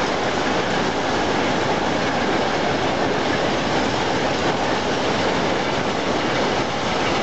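Freight train of open wagons rolling past, a steady noise of wheels on the rails.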